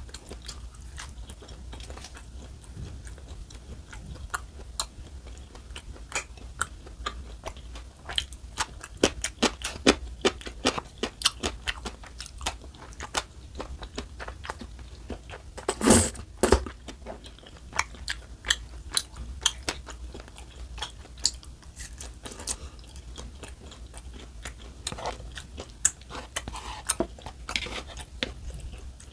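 Close-miked eating: crunching and chewing of crisp fried fish cake and noodles, with many small wet clicks of mouth and teeth. About halfway through comes one longer, louder slurp of noodles.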